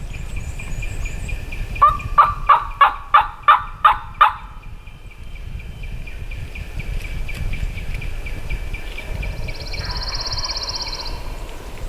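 Turkey yelping: a run of about eight evenly spaced yelps, roughly three a second, over a low rumble of wind. A short high buzzing trill from another bird comes near the end.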